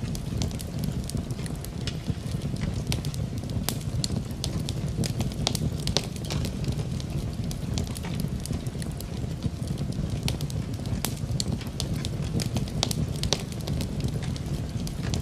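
Wood fire crackling in a fireplace, with frequent sharp, irregular pops and snaps over a steady low rumble, mixed with continuous rain.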